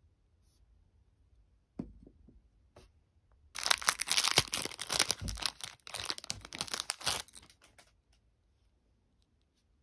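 Packaging being torn open and crinkled by hand for about four seconds, after a soft knock.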